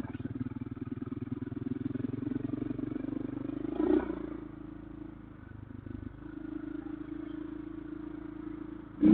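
Motorcycle engine running while riding a dirt road, its note pulsing fast and steady. About four seconds in there is a brief louder clatter, then the engine eases off before settling to a steadier note, with a sharp knock at the very end.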